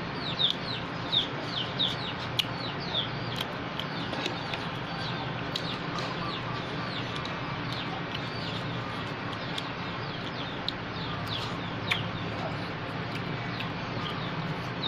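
Chicks peeping: repeated short, high chirps that each fall in pitch, a few per second, thinning out in the middle and picking up again near the end, over a steady background hiss with a few sharp clicks.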